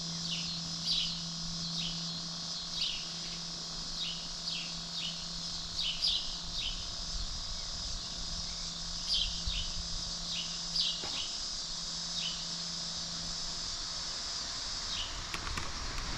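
Outdoor ambience: short, high, falling chirps from small animals repeat irregularly, one or two a second, over a steady high hiss. A low steady hum underneath stops about three-quarters of the way through.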